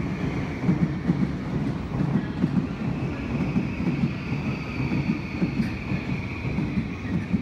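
Yokosuka Line E217-series electric commuter train running past along the platform, its wheels clattering over the rail joints in a dense, uneven rhythm, with a faint steady high whine above.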